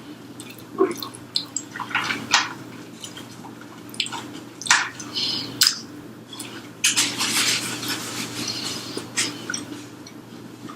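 Close-miked eating sounds: wet chewing and mouth smacks with scattered sharp clicks, and a denser stretch of noisy chewing near the end.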